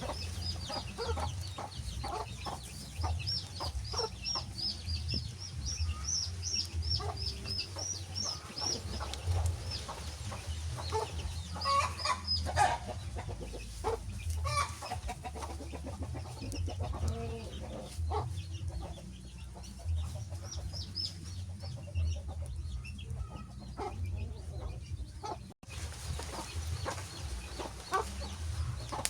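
Wood fire crackling with irregular pops over a steady low rumble. A rapid series of high, falling chirps like bird calls runs through the first third, and the sound cuts out for an instant near the end.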